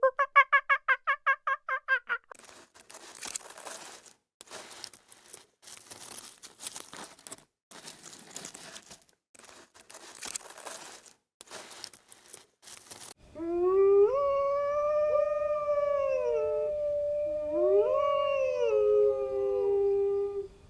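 A dog howling in one long, drawn-out call that slides up and down in pitch, rising twice, starting about two thirds of the way in; this is the loudest sound. Before it there are about ten seconds of short, scattered noisy bursts, and at the very start the tail of a fowl's rapid pulsing call.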